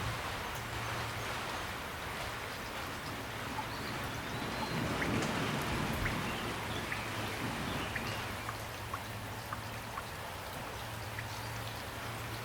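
Steady rain falling, with separate drops striking close by as short ticks.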